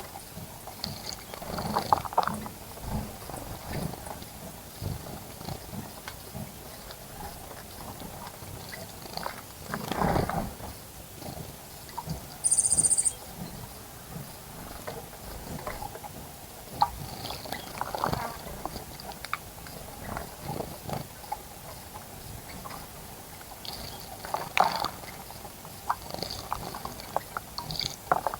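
Small wild birds splashing in a bird bath, in irregular bursts every few seconds, with faint bird chirps and a brief high buzz about halfway through.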